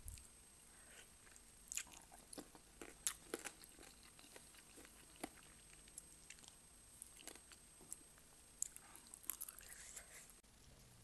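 Close-miked eating of Korean spicy chicken feet (dakbal): irregular wet clicks and small crunches of biting and chewing, faint overall with a few sharper clicks.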